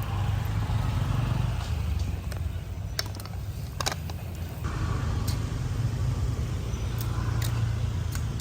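Steady low rumble of a motor vehicle engine running close by, with a few sharp clicks and taps scattered through it.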